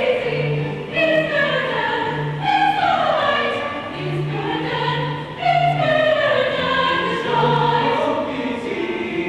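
A choir singing slow, sustained phrases over low held accompaniment notes.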